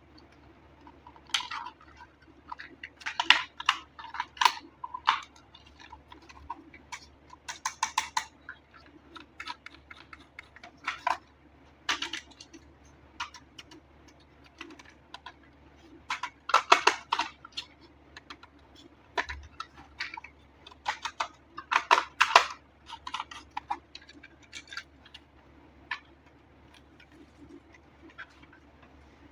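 Irregular clicks, taps and crinkles of hands handling a toy RC car and its plastic and cardboard packaging, coming in busy clusters with short pauses and thinning out near the end.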